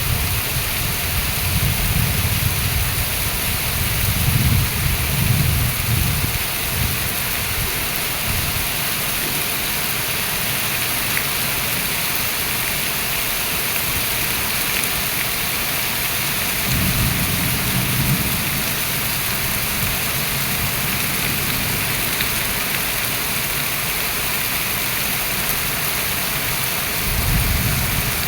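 Heavy rain pouring down as a steady, dense hiss. Low rumbles swell and fade three times: near the start, in the middle and near the end.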